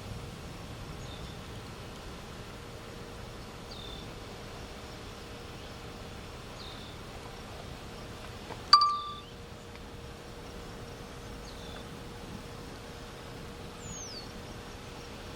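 A single sharp metallic clang with a brief ring, about nine seconds in. It sits over a steady outdoor background with a faint steady hum and a few faint, short, falling chirps.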